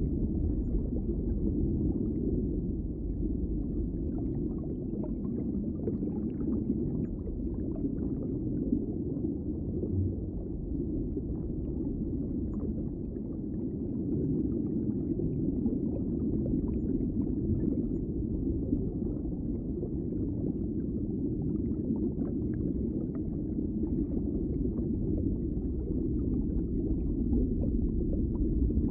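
Underwater ambience: a steady, muffled low rumble of water with faint scattered crackles and clicks.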